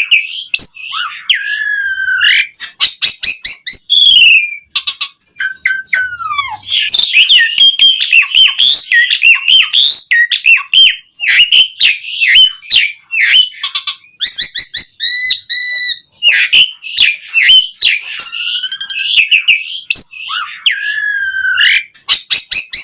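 Asian pied starling (jalak suren) singing continuously and loudly: a rambling, varied string of whistles, slurred rising and falling notes, clicks and chattering phrases, the full repertoire of a bird in top song.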